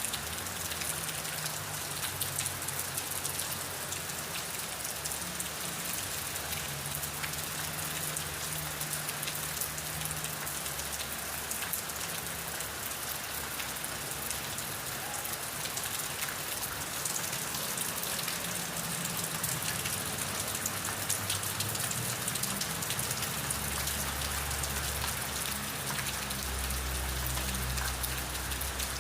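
Steady rain falling, a dense hiss with many fine drop ticks on a surface, along with a faint low rumble.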